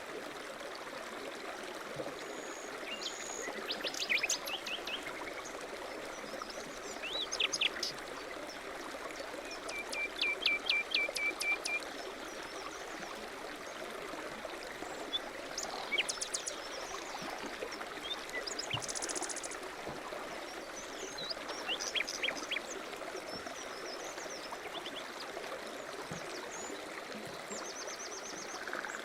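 Several songbirds chirping and singing over a steady rushing background noise. About ten seconds in, one bird gives a quick run of about eight identical notes.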